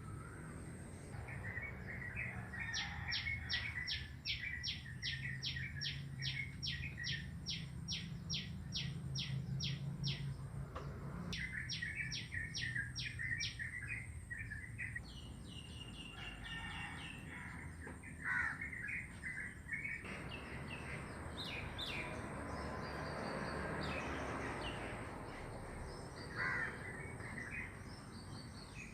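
Wild birds singing and calling in the morning: one bird repeats a rapid series of sharp high notes, about three a second, for several seconds, twice, followed by assorted shorter chirps and warbles. A low hum runs underneath.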